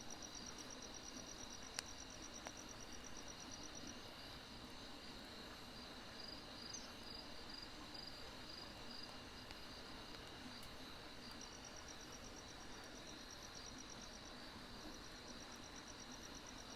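Crickets and other grass insects chirping steadily at night, with a trill of rapid even pulses that comes in bursts of a few seconds and stops in between. A single sharp crackle from the burning firewood comes about two seconds in, over a soft even hiss.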